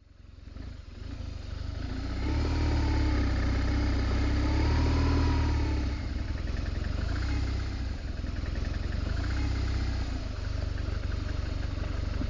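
BMW R1200GS Adventure motorcycle's flat-twin engine running under way, fading in from silence over the first couple of seconds, its pitch swelling and easing a few times over a heavy low rumble.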